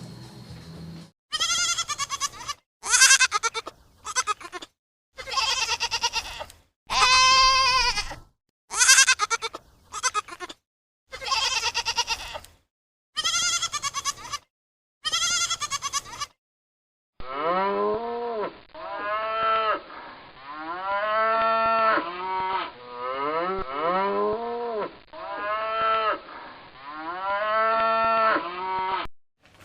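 Bleating of sheep or goat-type livestock: a run of short separate bleats with abrupt silent gaps between them, then about twelve seconds of many overlapping wavering bleats from a flock, duller in tone.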